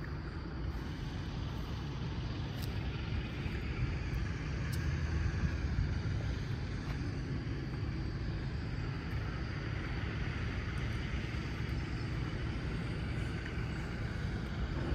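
Dodge Challenger SRT 392's 6.4-litre HEMI V8 idling with a steady low rumble.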